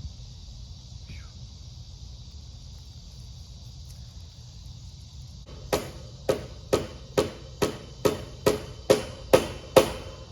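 A hammer striking about ten times in a steady rhythm, roughly two to three blows a second, the blows getting louder, starting about halfway through.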